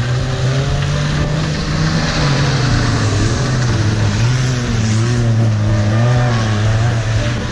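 Car engines running hard and revving, the pitch rising and falling, as rally cars drive through mud and puddles on an off-road race course.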